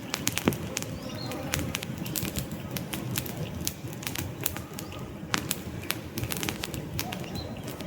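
Wood campfire burning: frequent sharp crackles and pops over a steady low rush of flame. A bird chirps faintly once or twice.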